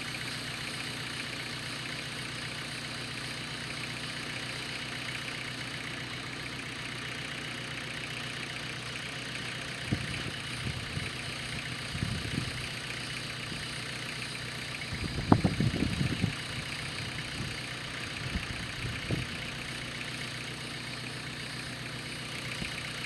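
An engine idling steadily, with a few short knocks and clunks over it about halfway through, the loudest a little past the middle.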